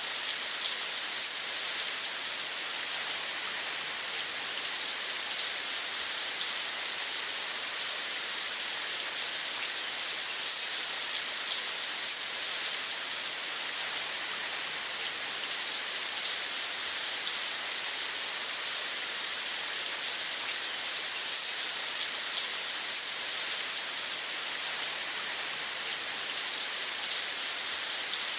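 Steady rain: an even, high hiss flecked with the fine patter of drops, unchanging throughout.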